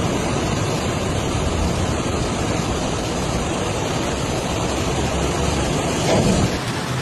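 Heavy rain falling as a steady hiss, with a brief louder swell about six seconds in and an abrupt change just after it.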